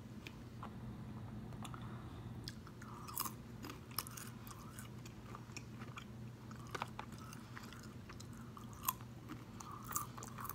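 A person chewing food close to the microphone, with scattered sharp clicks and small crunches from the mouth, one of the louder ones about nine seconds in.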